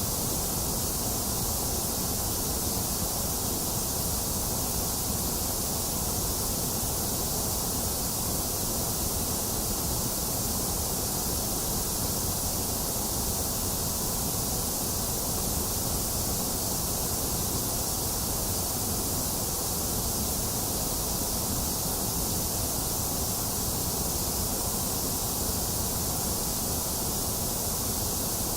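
Steady, unchanging synthetic white noise: an even hiss with no breaks or changes, its middle range a little thinner than its highs and lows.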